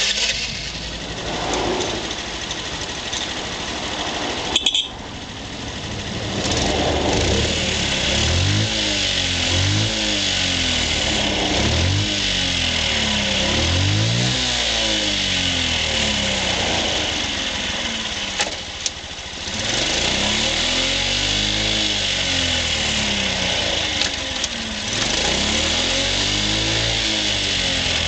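Honda Giorcub scooter engine starting up and running. From about six seconds in it idles, with repeated throttle blips that make the pitch rise and fall, several in a row.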